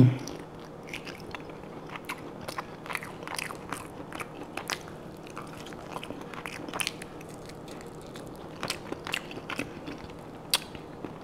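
A person chewing and biting well-done lamb close to a clip-on microphone: irregular wet mouth clicks and smacks, with a sharper click about ten and a half seconds in.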